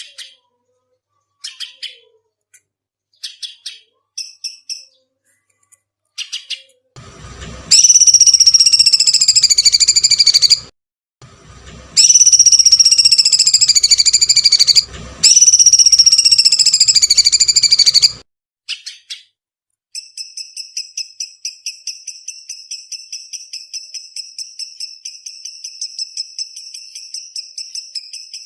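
Recorded songbird training calls (masteran). Scattered short chirps are followed by three loud, long, downward-gliding cries of a few seconds each. A fast, even trill of repeated high notes then runs on.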